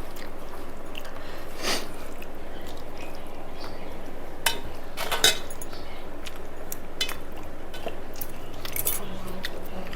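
Eating at a meal plate: a handful of short clinks and taps of dishes, the loudest in the middle, over a steady background hiss.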